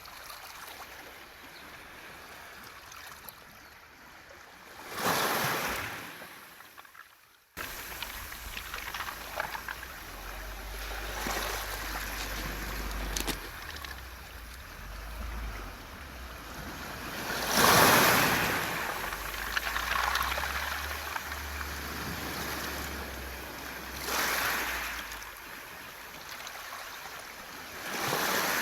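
Sea waves washing onto a beach of round mongdol pebbles, swelling into a louder surge every several seconds with the pebbles rattling in the wash. A low wind rumble on the microphone runs under the middle stretch.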